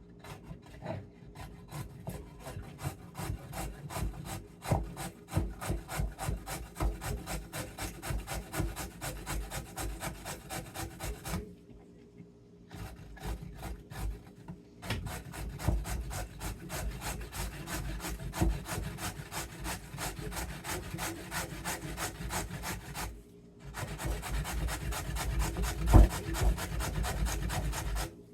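A carrot being grated by hand on a metal grater, in rapid repeated rasping strokes that stop briefly twice.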